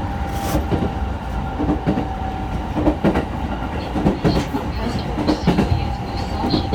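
JR E217 series electric train running, heard from inside the car: a steady rumble with its wheels knocking irregularly over rail joints, and a faint steady hum underneath.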